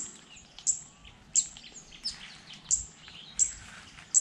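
A bird calling: a short, high chirp that falls in pitch, repeated at a steady pace of about one every 0.7 seconds.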